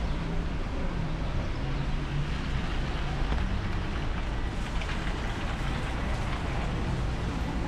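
Steady rain falling, pattering on an umbrella, with a low steady rumble underneath.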